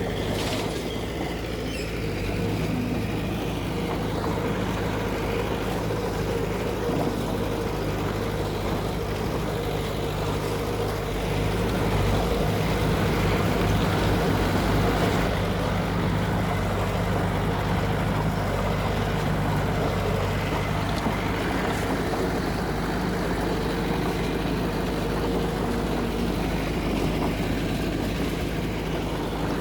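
Heavy diesel engine of an earthmoving machine running steadily, a little louder for a few seconds in the middle.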